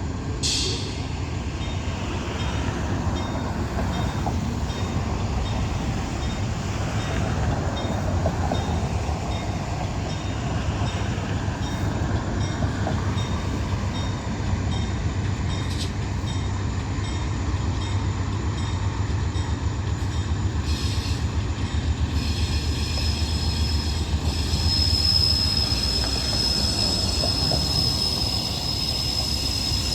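Train rolling past with a steady rumble of wheels on rail. About two-thirds of the way through, a high, steady wheel squeal joins in.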